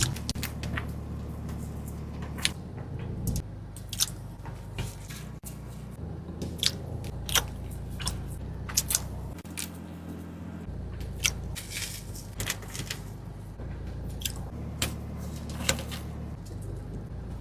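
A person eating paratha and fried fish: chewing and biting, with sharp crunches and clicks coming irregularly over a low steady hum.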